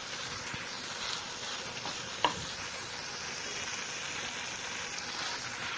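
Thick chicken and capsicum masala sizzling on a low flame while a wooden spatula stirs it in a nonstick kadai, the oil separating out as the masala cooks down. One sharp click about two seconds in.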